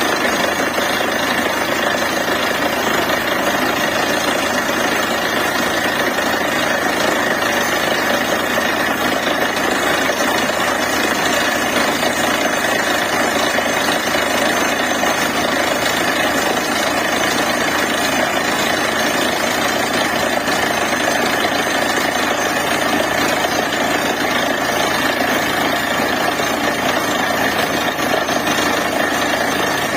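Borewell drilling rig running steadily while drilling: a loud, dense, unbroken machine noise with no pauses.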